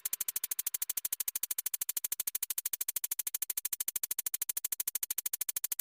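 Rapid, even electronic ticking pulse, about a dozen clicks a second, that stops abruptly near the end.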